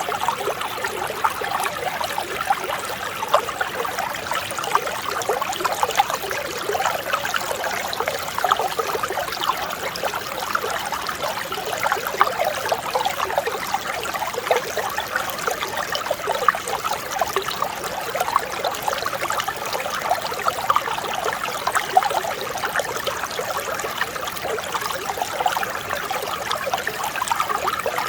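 Mountain stream flowing steadily, a dense, even babble of many small trickles and gurgles.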